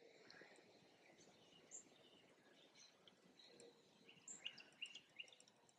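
Near silence: faint outdoor background with scattered short bird chirps, coming more often near the end.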